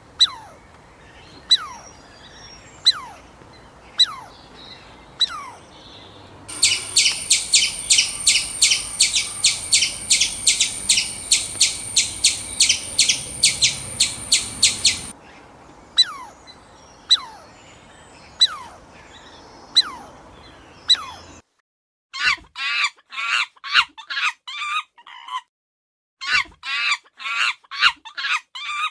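Birds calling in several short clips in a row. First comes a sharp falling chirp about once a second. Then a fast, even trill of about four pulses a second runs for some eight seconds, the falling chirps return, and a run of quick chirps follows against a silent background.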